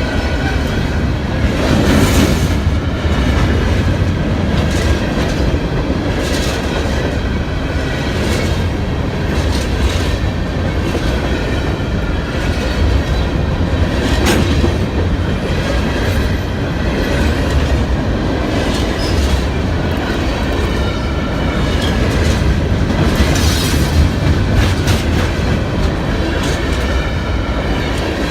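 A train running past on the rails: a steady low rumble with wheels clicking over rail joints every second or two.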